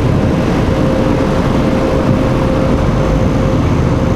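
Automatic car wash dryer blowers running, a loud steady rush with a steady whine through it, heard from inside the truck's cab at the end of the wash cycle.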